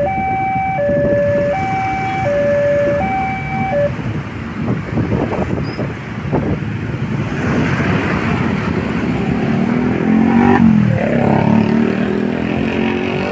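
Railway level-crossing warning alarm sounding a two-note alternating hi-lo tone, which stops abruptly about four seconds in, the sign that the crossing is clearing. Road traffic of motorcycles and cars then moves off, with an engine note dipping and rising near the end.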